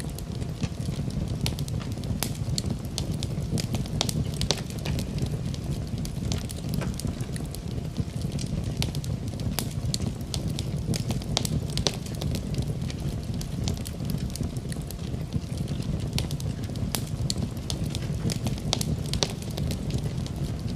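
Fire crackling in a fireplace: a steady low rumble of flames with frequent sharp, irregular pops and snaps.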